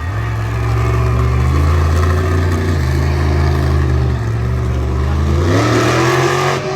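Monster truck engine running steadily at low revs, then revving up in a rising pitch about five and a half seconds in.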